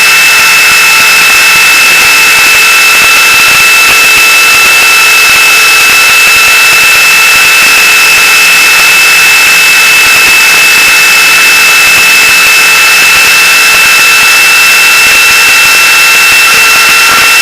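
Gaui Hurricane 425 radio-controlled helicopter in flight: a steady high-pitched whine from its drive and rotors over a loud, even rush of noise.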